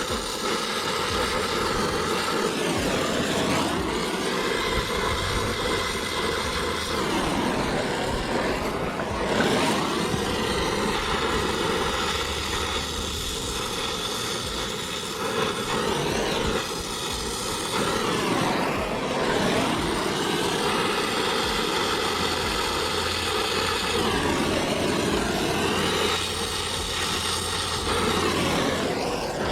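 Brazing torch flame running steadily while a copper refrigerant joint on a replacement compressor is brazed, its sound shifting a little every few seconds as the flame is moved around the joint.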